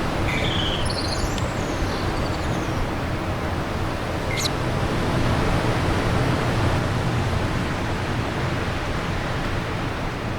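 Steady rushing wind, with a few short bird chirps in the first second and a single brief chirp about four and a half seconds in.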